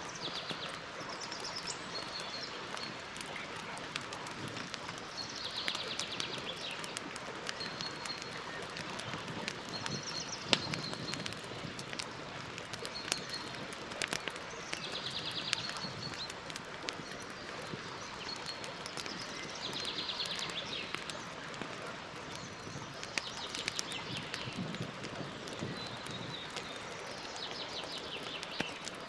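Campfire crackling, with scattered sharp pops over a steady hiss. A songbird repeats a short, high trilled phrase about every four to five seconds.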